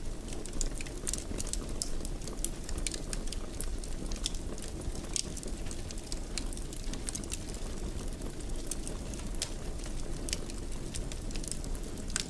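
A fireplace fire crackling: irregular sharp snaps, several a second, over a steady low rumble.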